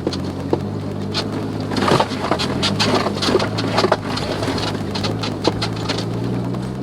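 Suzuki Jimny JB23W's small three-cylinder turbo engine running at a steady pitch while driving a gravel forest road, with irregular sharp ticks and clatter of gravel and small stones against the tyres and underbody, busiest in the middle.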